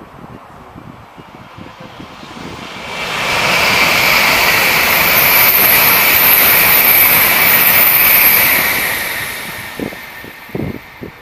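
Tokaido Shinkansen N700-series bullet train passing at high speed without stopping: a rush of air and running noise that swells within about a second, holds loud for some five seconds, then fades away, with wind buffeting the microphone near the end.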